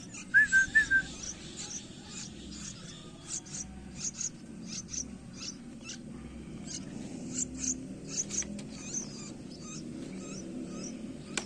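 Nine-day-old yellow-vented bulbul chick calling with many short, high chirps. Four loud whistled notes come just after the start.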